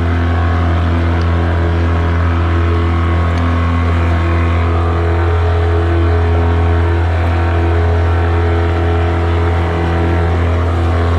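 Mercury 9.9 hp outboard kicker motor running steadily under load, pushing a heavily loaded 5,000-pound boat along at a constant speed with an even, unchanging engine tone.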